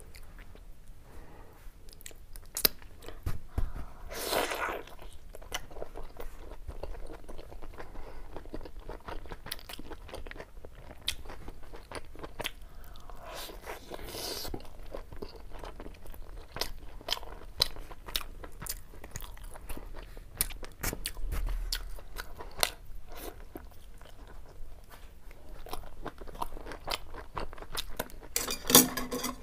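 Close-miked mouth sounds of a person biting into and chewing a large steamed pork momo with chutney: many short clicks, with a few broader bursts and a louder sound near the end.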